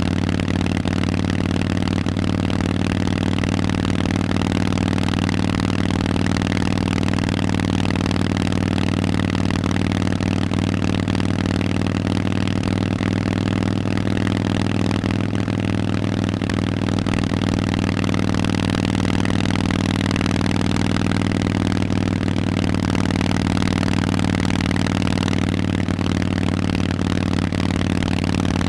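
Harley-Davidson Forty-Eight's air-cooled V-twin running through loud Vance & Hines aftermarket exhausts, holding a steady, unchanging engine note.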